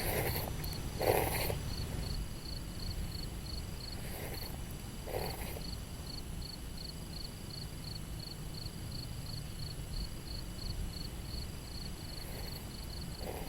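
An insect chirping in a steady pulse, about three short high chirps a second, over a low steady rumble. A few brief handling noises break in, the loudest about a second in.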